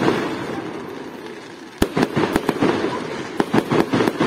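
Fireworks display bursting overhead: a crackling haze fades out, then a sharp bang a little under two seconds in sets off a quick run of bangs over more crackling.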